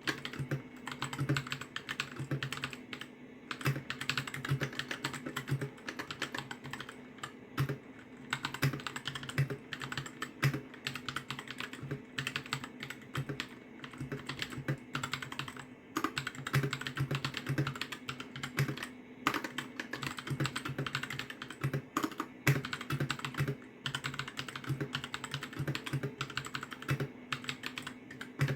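Typing on a Royal Kludge RK60 budget mechanical keyboard: quick, irregular runs of key clacks with short pauses between them, over a faint steady hum.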